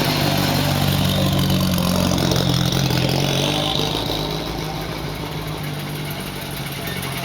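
Old car's engine running slow and steady as it rolls past at walking pace, fading a little after about four seconds.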